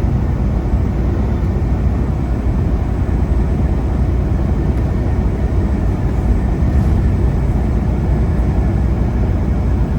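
Semi truck's engine and road noise heard inside the cab while driving: a steady, unbroken low rumble.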